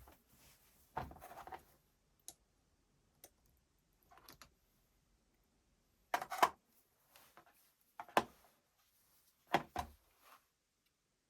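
Irregular clicks and knocks of drill parts and tools being handled during a gearbox repair, about eight in all, with the loudest a double knock about six seconds in.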